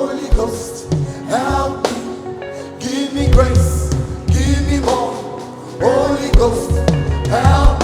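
Live gospel worship music: singing over a band, with held low bass notes and a beat.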